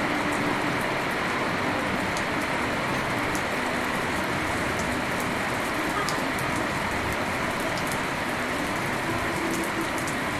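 Steady rain falling, a dense even hiss with many sharp individual drop ticks scattered through it.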